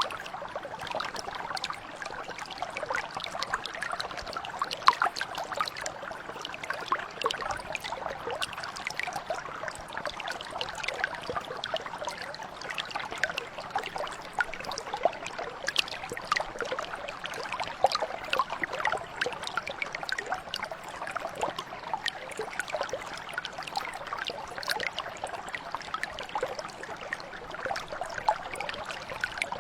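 Shallow stream or mountain brook flowing steadily over stones, a continuous babble of many small trickles and splashes.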